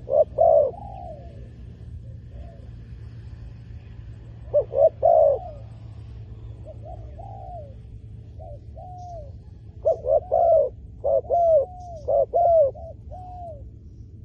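Spotted dove cooing: bouts of short, repeated coo phrases, loudest at the very start, about five seconds in, and in a longer run from about ten to thirteen seconds in.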